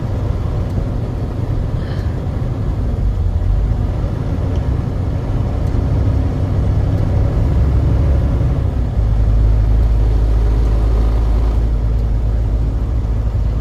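Truck engine and road noise: a steady low rumble that grows louder about nine seconds in.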